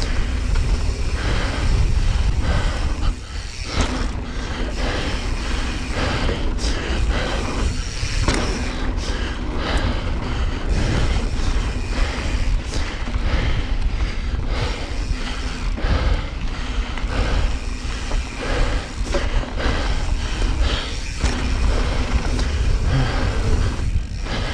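Wind buffeting the microphone of a mountain bike's onboard camera on a fast descent, a continuous low rumble, with knobby tyres on loose dirt and the bike rattling and knocking over bumps.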